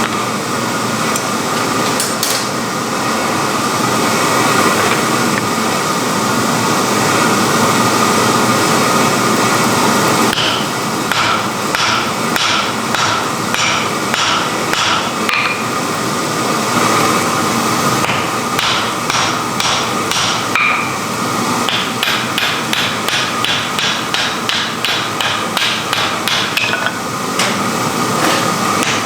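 Hammer blows on wrought iron being forged, starting about a third of the way in at about two a second, pausing briefly, then quickening to about three a second near the end, over a steady rushing noise.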